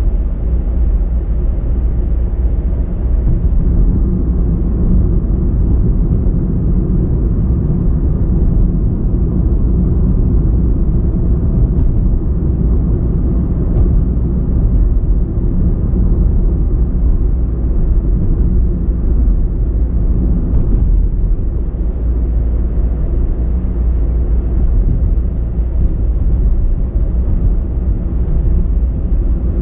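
Steady low rumble of a car driving along, engine and tyre road noise, unchanging throughout.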